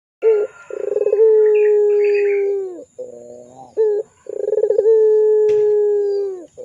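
Puter pelung dove cooing: two long, steady held coos, each dropping in pitch at its end, with short broken notes leading into them.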